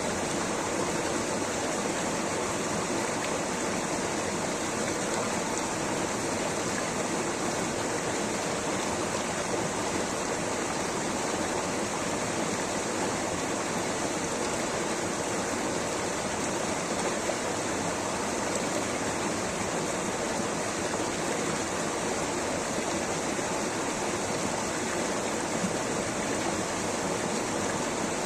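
Water rushing steadily over rocks in a stream or small waterfall, an even unbroken hiss.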